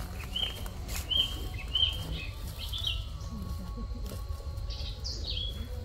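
Small birds chirping: several short, bright chirps, each with a quick slide in pitch, repeated at irregular intervals, with faint footsteps on a leaf-littered path.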